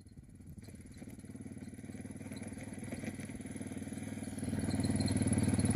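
Dual-sport motorcycle engine running at low speed, with a steady fast pulse, growing steadily louder as the bike comes nearer.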